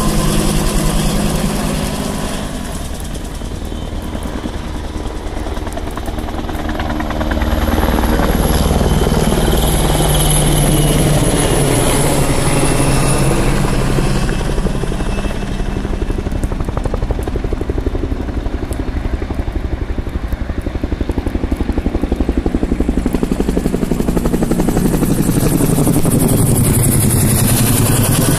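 Firefighting helicopter flying past with a continuous rotor beat, easing off a little about three seconds in and growing louder again from about seven seconds.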